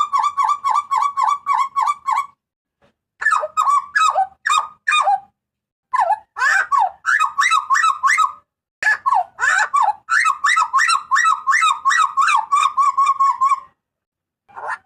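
Hooded butcherbird (jagal papua) giving loud, harsh calls: quick runs of repeated notes, about four a second, in four bursts with short pauses between them.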